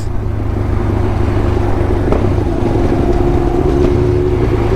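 Motorcycle engine running at a steady cruise, heard from the rider's mic, with wind rumble underneath.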